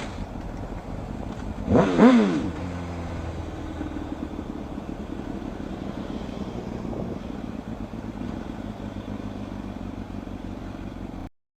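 A motorcycle passes at speed about two seconds in, its engine note dropping in pitch as it goes by. After it, a steady low engine hum with road noise continues, then cuts off abruptly near the end.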